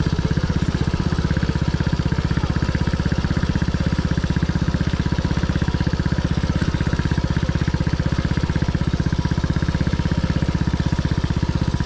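Dirt bike engine running steadily at a constant low speed, an even rapid putter with no revving.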